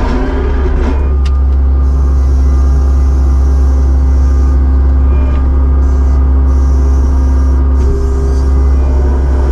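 Kubota SVL75-2 skid steer's four-cylinder diesel engine running steadily under work, with a deep hum and a brief wobble in pitch in the first second.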